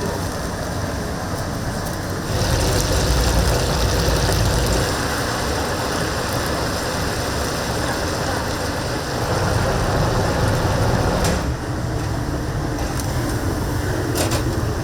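Whole chickens deep-frying in oil, giving a steady sizzling hiss over a low mechanical hum. The sound gets louder for a few seconds about two seconds in and again about nine seconds in.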